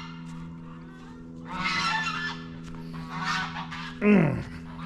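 Domestic geese honking in two short bouts. Near the end comes a louder, low call that falls in pitch. A steady low hum runs underneath.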